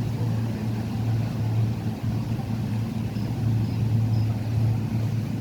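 Steady low engine drone, an even hum with no change in pitch.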